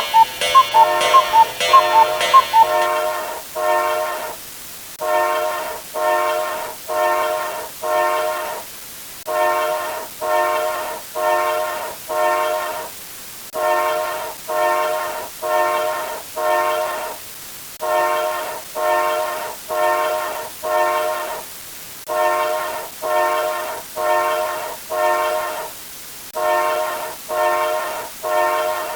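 A multi-tone train horn sounding in short blasts, about five quick toots in a row, the group repeating every four seconds or so. A quick clock-like ticking with bright pings stops a few seconds in.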